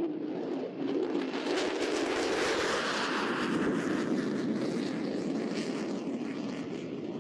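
Jet noise from an F-35C Lightning II's single Pratt & Whitney F135 turbofan as the fighter flies low past the crowd at about 350 knots. A loud rushing roar sweeps in suddenly with a falling pitch, is loudest a few seconds in, then slowly fades as the jet moves away.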